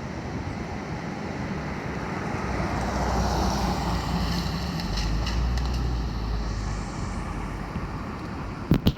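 Outdoor rushing noise with wind buffeting the microphone, swelling in the middle. A few sharp clicks come near the end, and then the sound cuts off suddenly.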